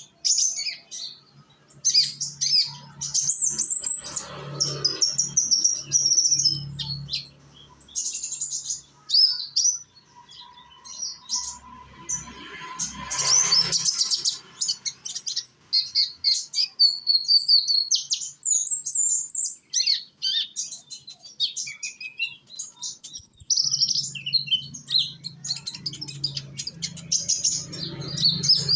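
Young konin songbird singing a long, fast, high-pitched twittering song of quick chirps and trills, with only brief pauses.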